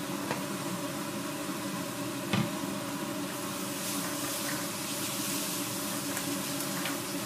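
Onion-tomato masala frying with a steady sizzle in a steel kadhai on a gas flame, stirred with a spatula, with one short knock of the spatula on the pan about two seconds in.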